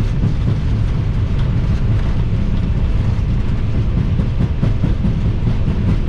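Airbus A321 flight-deck noise: a steady, loud low rumble with a faint hiss above it and a few light ticks.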